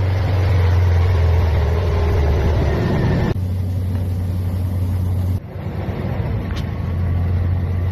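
Ford 5.4 L Triton V8 running at a steady idle after its timing chain repair, with no timing chain rattle. The sound cuts off abruptly twice, about three and five seconds in, and resumes each time.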